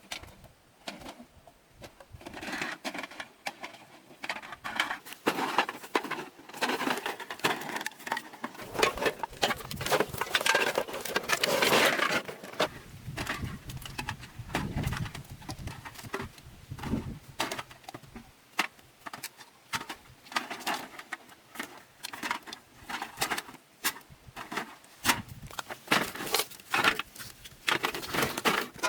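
Irregular tapping and clattering, many quick knocks in an uneven rhythm, busiest in the middle and again near the end.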